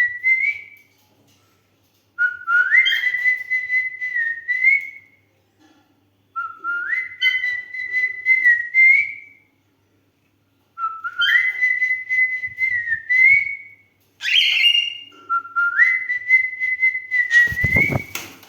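Cockatiel whistling the same short tune four times with pauses between. Each phrase rises to a long held note and ends with a little upward flourish. Near the end a loud thump cuts across the last phrase.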